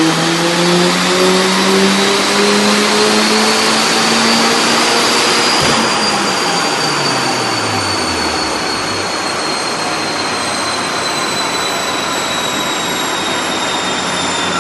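Turbocharged 1.8-litre 20-valve four-cylinder engine making a full-throttle dynamometer pull: loud, with the revs climbing for about five seconds. Then the revs drop away while a high whine keeps sounding, slowly falling in pitch.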